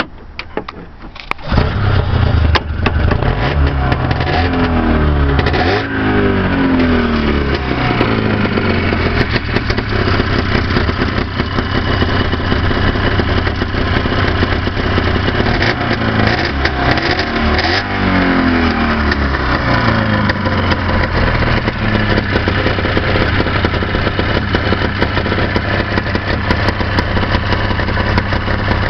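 1978 Ski-Doo Blizzard 6500 snowmobile's two-stroke engine catching about a second and a half in, then revved up and back down twice and left idling.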